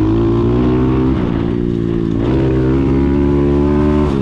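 A 140 cc carbureted single-cylinder dirt bike engine running hard under throttle. Its pitch climbs, drops sharply about a second in and again after about two seconds as the bike shifts up, then holds high.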